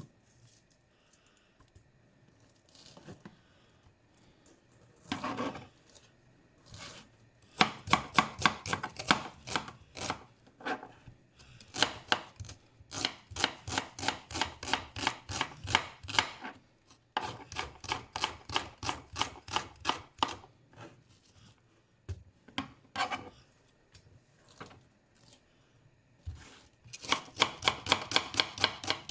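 Knife chopping on a cutting board in runs of quick, even strokes, about five a second, with short pauses between runs.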